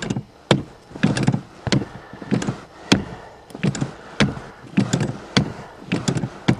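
Accelerator pedal of an old carbureted car pumped over and over to prime it for a cold start without choke: a steady run of about ten knocks, one every half second or so.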